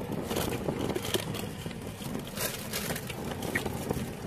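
Mouth-noise chewing with scattered light clicks and crinkles of food packaging, over a low steady rumble inside a car.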